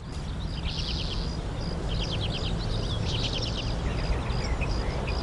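Birds chirping in several short bursts of quick, repeated notes over a steady low rumble of background noise.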